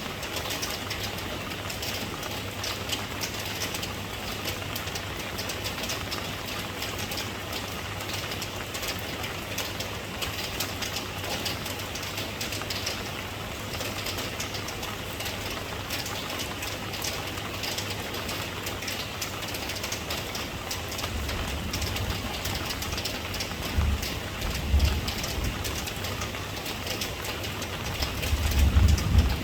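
Steady rain, a dense patter of drops, over a low steady hum. From about two-thirds of the way in, a deep rumbling swells in and out, loudest near the end.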